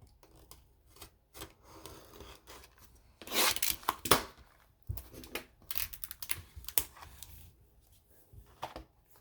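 A sealed trading-card hobby box being unwrapped and opened by hand: packaging tearing and rustling, with cardboard scraping and rubbing. The bursts come irregularly and are loudest about three and a half to four seconds in.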